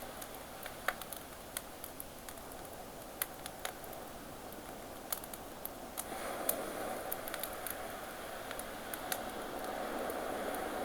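Campfire crackling with irregular sharp pops over the steady wash of ocean waves; the surf swells louder about six seconds in.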